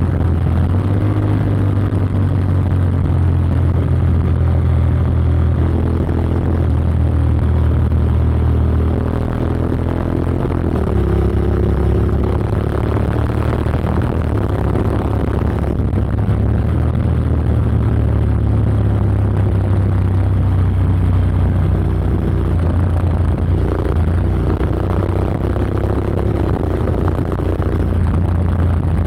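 Honda X-ADV's 745 cc parallel-twin engine running through an SC-Project SC-1R slip-on exhaust with its dB killer fitted, a deep steady exhaust note. About ten seconds in the note drops in pitch, then gradually climbs again.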